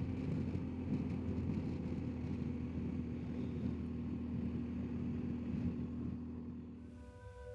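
BMW R1250GSA motorcycle riding at a steady speed: its boxer-twin engine runs at an even note under wind and road noise. The sound fades out near the end as piano music comes in.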